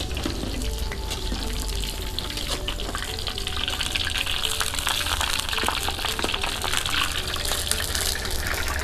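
Tofu cubes sizzling in hot oil in a wok, with metal clinks and scrapes as a spatula and a perforated metal strainer lift them out to drain.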